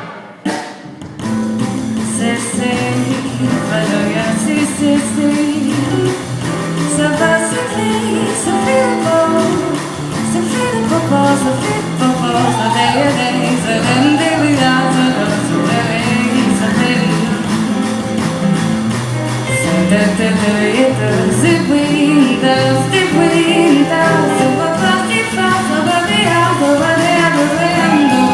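Live big band playing an instrumental passage with no words sung. There is a brief drop about a second in, then the full band comes back in.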